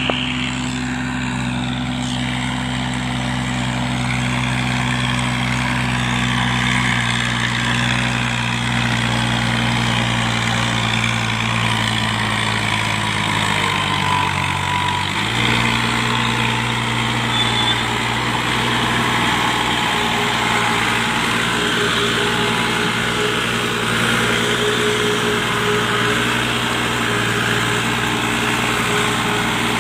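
Massey Ferguson 385 tractor's diesel engine running steadily under power, its pitch sagging about halfway through and then picking straight back up.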